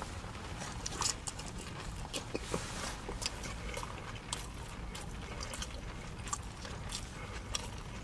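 Close-miked chewing of a sushi burrito: irregular wet mouth clicks and smacks over a steady low hum.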